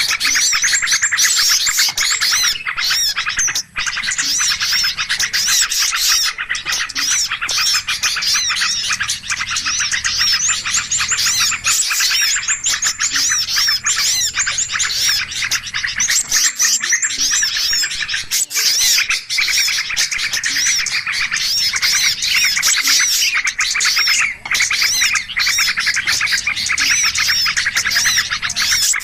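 A dense, unbroken chorus of many small songbirds chirping and trilling over one another. It is a 'noisy' bird-lure (pikat ribut) recording, played to draw small birds in.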